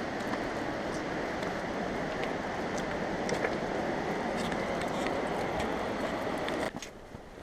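Steady rushing of the creek's water below the trail, with scattered light ticks; the rush drops away abruptly near the end.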